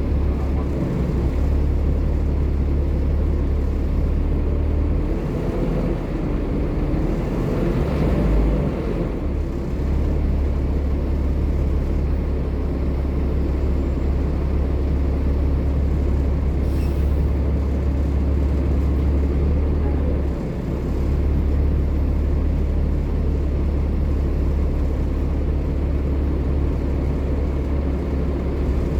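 Volvo B7TL bus engine running with a steady low drone, its sound shifting briefly about eight seconds in, and a short hiss of air partway through.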